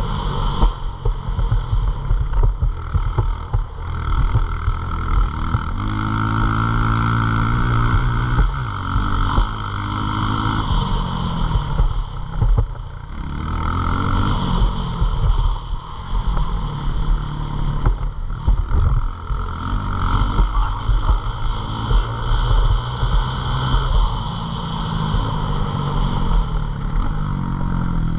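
Pit bike engine revving up and falling back again and again, as on a track, over a low rumble of wind on the microphone.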